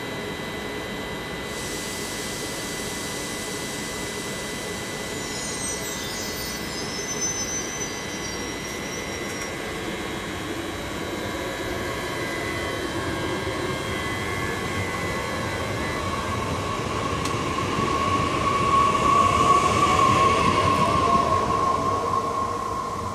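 TER regional passenger train pulling out of a station, with a steady electrical whine throughout. A brief high squeal comes about six seconds in. The running noise and a motor whine build, loudest a few seconds before the end, then begin to fade.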